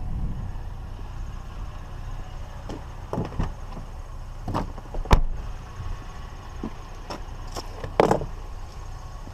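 Scrap being handled and set down: a few knocks and clunks, the loudest about five seconds in and another strong one near eight seconds, over a steady low hum.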